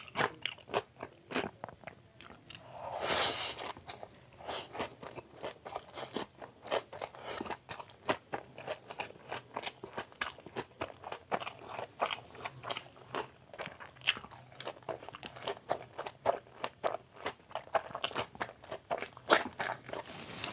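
Close-miked mouth sounds of a man eating chowmein noodles: chewing with many quick, irregular wet clicks and lip smacks, and a longer, louder slurp about three seconds in.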